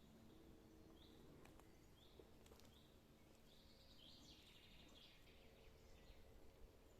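Faint bird calls: a short rising chirp repeated about once a second, then a brief burst of twittering about four seconds in, over quiet background.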